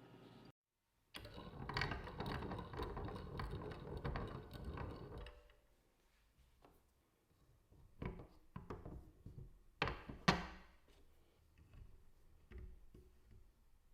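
Small-parts bench work on a watch case: about four seconds of dense scraping and rustling, then a scattering of separate clicks and knocks, two of them louder near the end.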